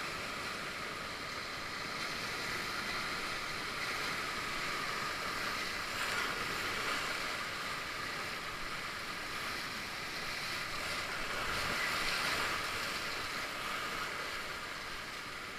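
Whitewater river rapids, a steady rush of moving water that swells and eases slightly but never stops.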